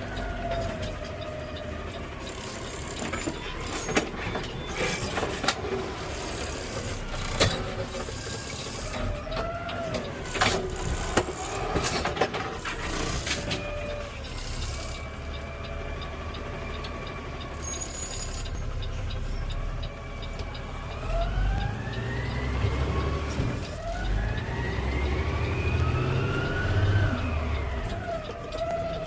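Automated side-loader garbage truck running, its engine and hydraulic whine rising and falling in pitch several times, with sharp clunks in the first half.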